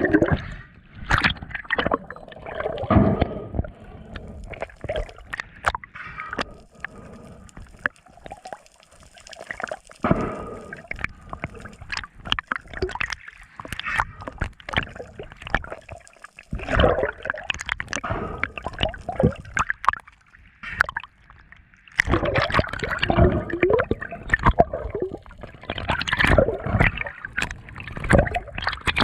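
Water gurgling and sloshing in irregular surges, with many sharp clicks and splashes.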